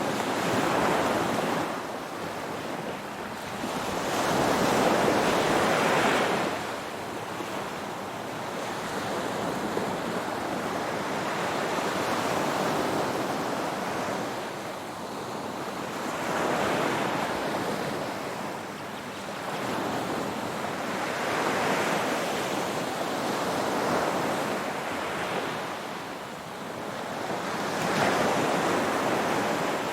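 Ocean waves breaking and washing up the shore, a continuous surf hiss that swells with each wave every few seconds and eases between them.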